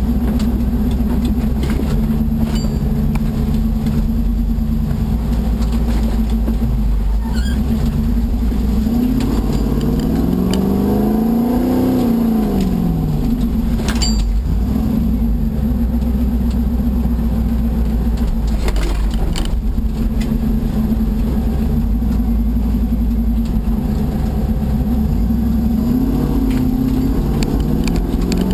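Rover V8 engine of a Tomcat off-roader running under load, the revs rising about ten seconds in and falling back, with a smaller rise and fall near the end. A couple of sharp knocks come through the vehicle along the way.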